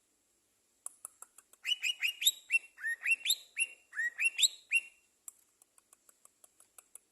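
Songbird chirping in a quick run of short notes, several a second, some sliding up or down in pitch; it starts about a second in and after about five seconds dies down to faint scattered ticks.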